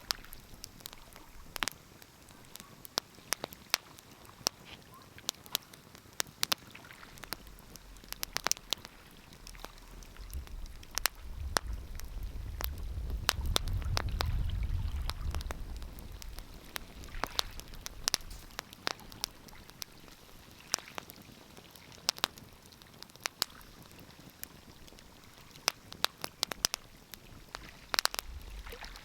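Wood fire crackling, with frequent irregular sharp pops and snaps. A low rumble swells and fades about halfway through.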